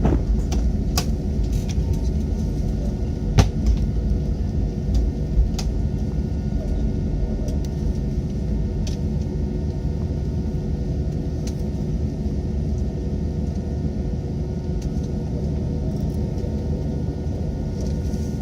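Jet airliner's engines and airframe rumbling steadily as heard inside the passenger cabin, with a few faint steady tones over it. Scattered light clicks and rattles from the cabin fittings, the sharpest about three and a half seconds in.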